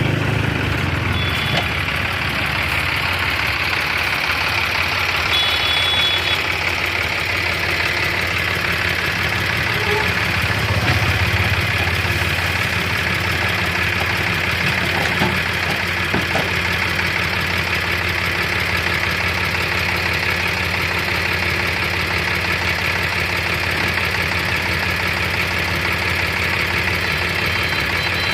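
Tractor diesel engine idling steadily, a low even running note with a light knock.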